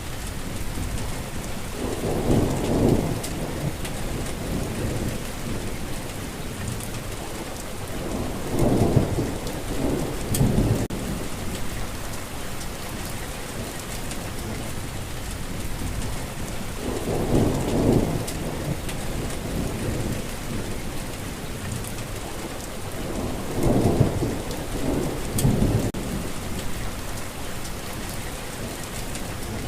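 Steady heavy rain falling, with low rumbles of thunder rolling in four times, each lasting a second or two.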